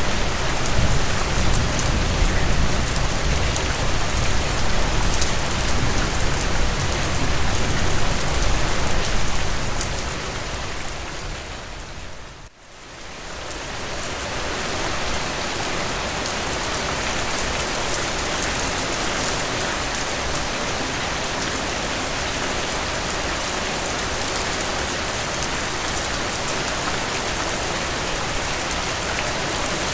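Steady heavy rain with fine, close drips. A low rumble under the rain fades out over the first ten seconds, the sound drops away briefly about twelve seconds in, then the rain runs on evenly.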